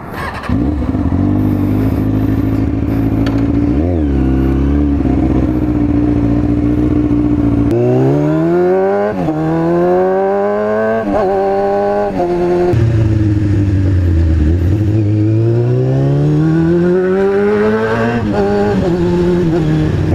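Kawasaki ZX-6R 636 inline-four sport-bike engine idling with a brief blip of the throttle. Then it pulls away, its pitch rising in sweeps broken by quick upshifts. It drops back and accelerates through the gears again.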